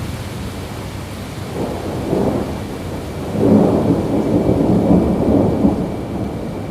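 Steady rain with thunder rolling in twice: a softer rumble about a second and a half in, then a louder, longer roll from about three and a half seconds in.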